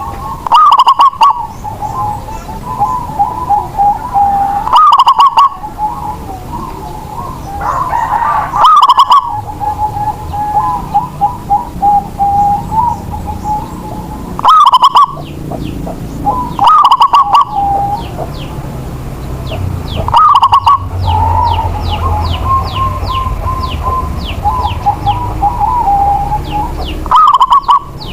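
Zebra dove (perkutut) singing its cooing song, a loud phrase repeated about every four to six seconds, over quieter steady cooing from other doves. Thin rapid chirps from small birds join in the second half.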